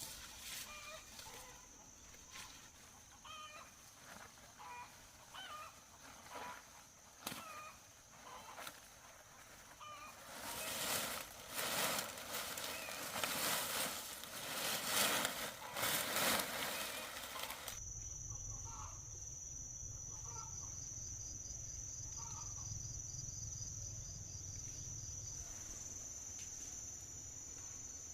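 Chickens calling in short, scattered clucks and chirps, with a spell of loud rustling in the middle. After an abrupt change about two-thirds of the way in, a steady high whine and a low hum run under a few more calls.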